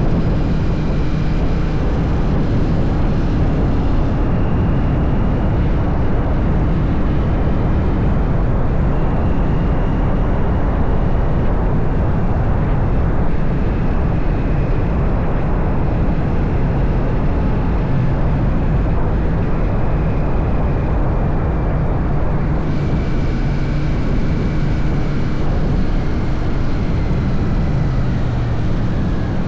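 Royal Enfield Shotgun 650's parallel-twin engine running at a steady cruise, mixed with loud wind rush on the microphone.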